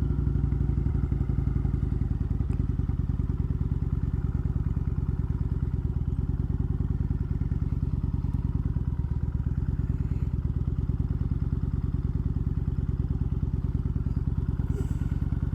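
Motorcycle engine running steadily at low revs, with an even, rapid pulse and no revving.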